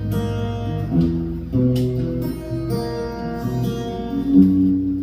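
Music: an acoustic guitar strumming chords in an instrumental passage of a country song, with no singing, the chords changing about once a second.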